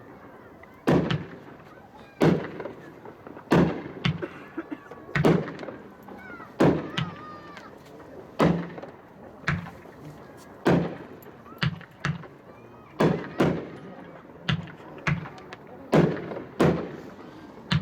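Two 12-shot, 500-gram Tiger consumer firework cakes firing together: a string of sharp bangs roughly one a second, each with a low thud, some shots nearly doubling up.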